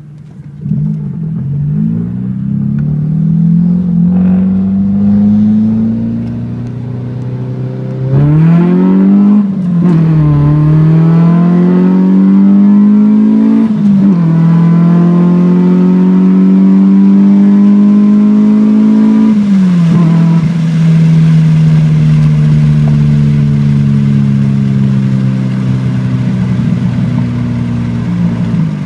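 2006 Nissan Sentra SE-R Spec V's four-cylinder engine on a hard acceleration pull, its note climbing in pitch through the gears, with sudden drops at upshifts about ten, fourteen and twenty seconds in. It then holds a steadier, slowly falling note near the end.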